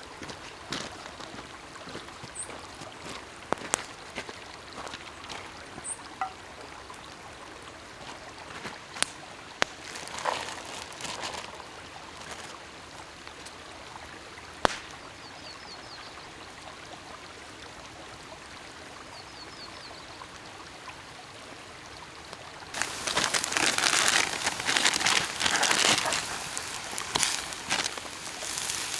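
Scattered faint crackles and a few short high bird chirps, then about 23 seconds in a sudden loud sizzling that keeps going, like food dropped into a hot oiled pan on the fire.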